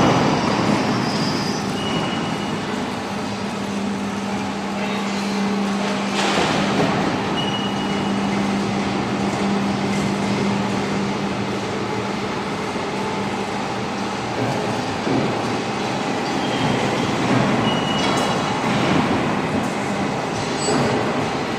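CNC hydraulic profile bending machine running through its automatic bending cycle: steady mechanical noise with a low hum that stops about two-thirds of the way through, and a few brief high squeals.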